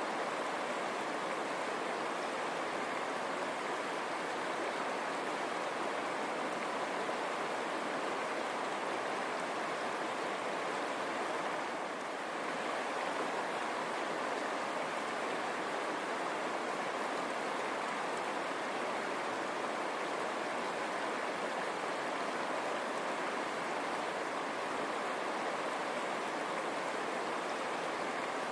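River water running over stones: a steady, even rushing.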